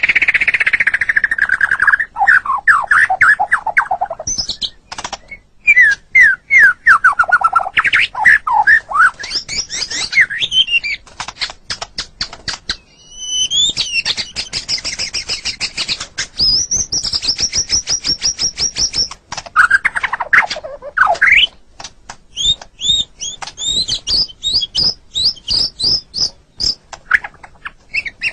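White-rumped shama singing a long, varied song: runs of quick falling whistled notes, rapid chattering series, and a high steady trill midway.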